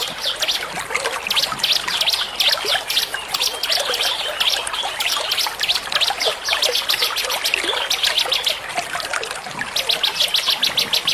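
Many small songbirds chirping and twittering rapidly in a dense, overlapping chorus, with short lulls. A steady trickling-water sound runs underneath.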